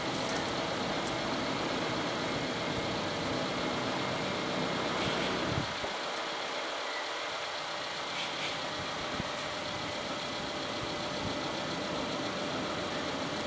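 Steady mechanical hum with a faint steady tone, like an engine idling. Its low rumble drops away about six seconds in and comes back a few seconds later.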